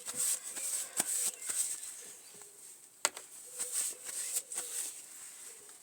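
Hands handling things on a work surface: rustling in short bursts, with a sharp click about a second in and another about three seconds in.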